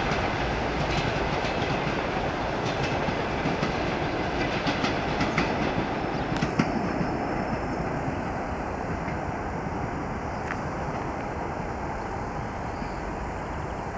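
Passenger train coaches rolling away, their wheels clattering over rail joints. The sharp clicks thin out after about six seconds, and the whole rumble slowly fades.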